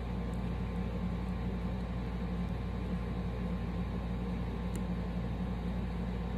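A steady low hum with a constant hiss, the kind of background noise a fan or an electrical hum leaves on a recording, with one faint tick near the middle.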